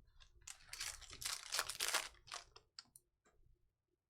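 Trading cards being handled and slid across one another: a short rustling stretch, then a few light clicks and taps.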